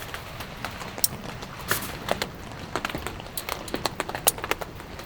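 Raindrops striking a tarp: irregular sharp taps, some loud, over a faint steady patter of rain.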